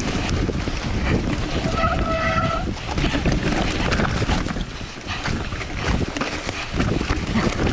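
Mountain bike riding down a rough, wet trail: steady wind buffeting on the microphone over the rumble and rattle of the bike, with one brief high-pitched squeal about two seconds in.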